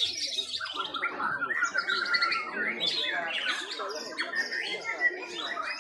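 Several white-rumped shamas (murai batu) singing at once: a dense, unbroken tangle of rapid, overlapping chirps, trills and whistles.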